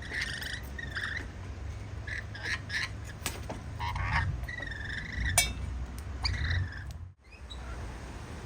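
Birds calling: a series of short, harsh calls over a steady low rumble, with a few sharp clicks. The sound drops out briefly near the end.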